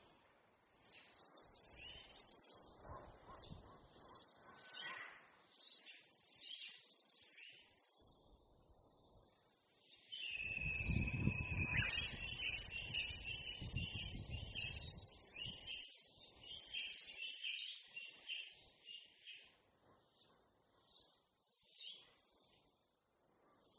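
Several songbirds chirping and trilling. About ten seconds in, a louder low rumble comes in and lasts around five seconds, under the birdsong.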